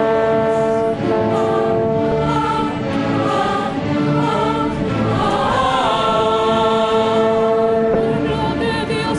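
Choir singing with orchestra in a slow sacred piece of Bolivian mission music, long chords held under moving sung lines.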